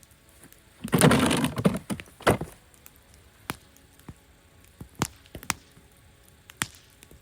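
Campfire wood crackling with scattered sharp pops. About a second in comes a louder, rough clatter lasting under a second, followed by a sharp crack.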